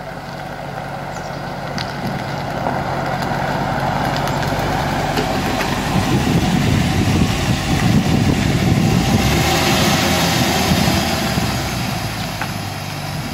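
2010 Chevrolet Camaro SS's V8 running at low speed as the car is driven into its parking spot. It grows louder through the first half and eases off near the end.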